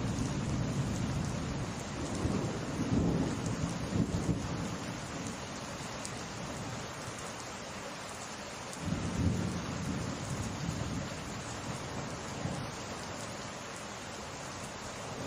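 Steady summer rain falling with rolling thunder. The thunder rumbles in the first few seconds and swells again about nine seconds in.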